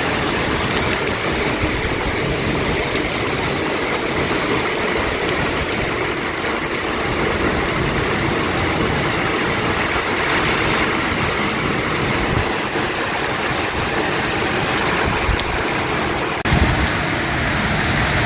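Heavy rain pouring down steadily in a summer storm. About sixteen seconds in, a low rumble rises under the rain.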